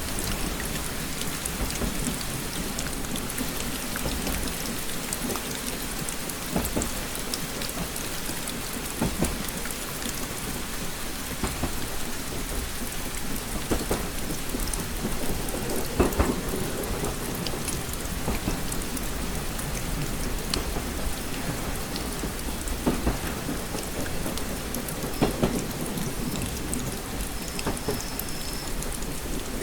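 Steady rain pattering on a window, with a constant low rumble underneath and scattered louder drops tapping, the loudest about sixteen seconds in.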